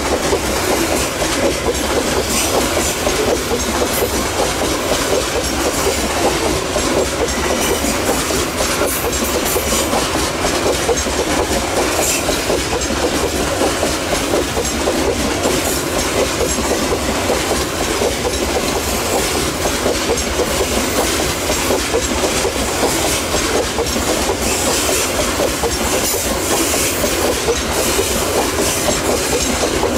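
Wagons of a long Babaranjang coal train rolling steadily past on a curved track. Steel wheels on rail make a continuous rumble with many rapid clicks over the rail joints.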